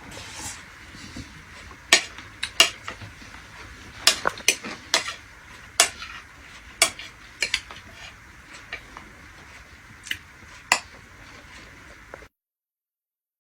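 Metal utensils clinking and scraping against dishes and pots in irregular sharp strikes, over a faint steady hiss. The sound cuts off abruptly near the end.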